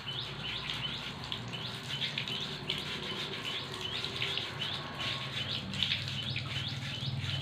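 Birds chirping in a steady series of short, high calls, two or three a second, over water running from a tap through a hose and splashing on a wet concrete floor.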